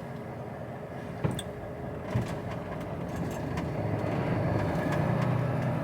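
Lorry's diesel engine heard from inside the cab, getting louder from about four seconds in as it works harder, with a couple of short knocks early on.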